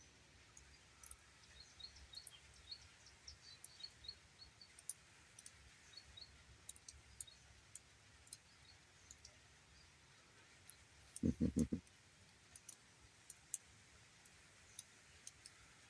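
Ducklings peeping faintly in quick runs of short high chirps, with a brief run of quacks from a duck about eleven seconds in. Light scattered clicks throughout.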